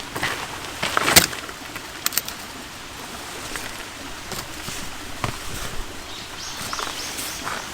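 Camp gear being handled and set out: a series of scattered knocks and clicks, the loudest about a second in, with short high bird calls near the end.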